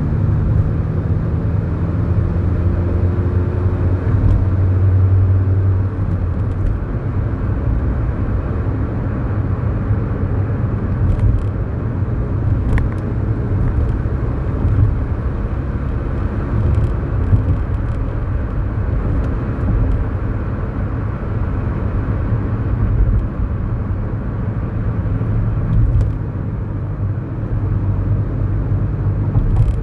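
Kia Morning's 999cc four-cylinder engine running steadily under way, with tyre and road rumble, heard from inside the small car's cabin.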